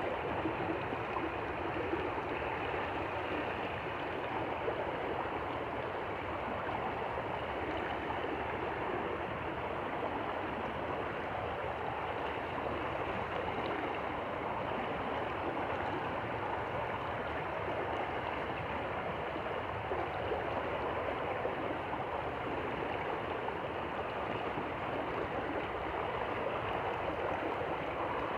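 Stream water flowing and gurgling, a steady rushing noise.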